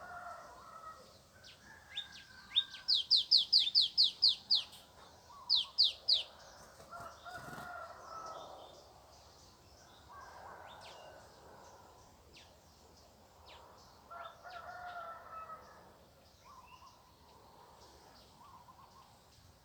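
Roosters crowing faintly, over and over, about five times. The loudest sound is a small songbird's series of sharp falling notes, about four a second, a few seconds in and briefly again, with scattered chirps from other birds.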